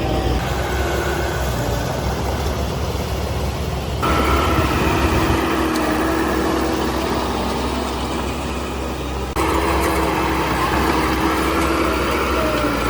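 Diesel engine of heavy earthmoving machinery running steadily, with sudden jumps in sound about four and nine seconds in.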